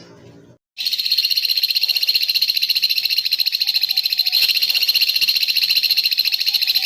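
A high-pitched, very rapid pulsed trill, held without a break for about seven seconds, starting just under a second in after a brief silence: a recorded masteran call clip of the kind played to train songbirds.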